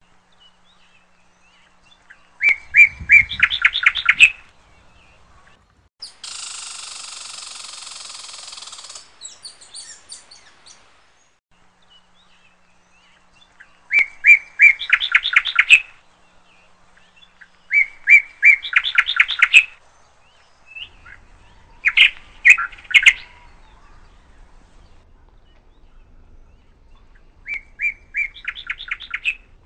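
Birdsong: one song phrase of quick chirping notes, about two seconds long, repeated several times with pauses between. About six seconds in, a steady hiss lasts around three seconds.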